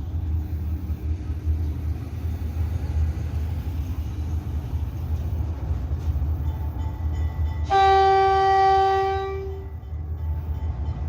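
Diesel freight locomotives of a five-locomotive empty grain train running with a steady low rumble. About eight seconds in, a locomotive air horn sounds one long blast of about two seconds.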